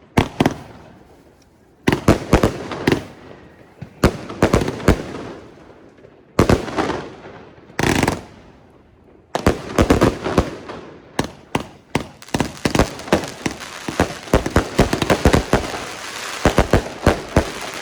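Fireworks going off: sharp bangs in short clusters, then a dense, near-continuous run of bangs and crackling over roughly the second half.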